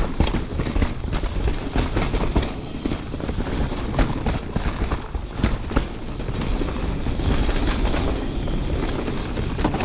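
Canyon Spectral 29 CFR mountain bike riding fast down a rough dirt trail: tyres rolling over dirt and roots, with the chain and frame rattling and many sharp knocks from hits on the trail.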